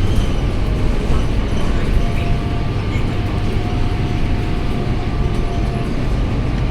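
Scania K230UB bus's diesel engine running with a steady low drone, a faint thin whine over it in the middle.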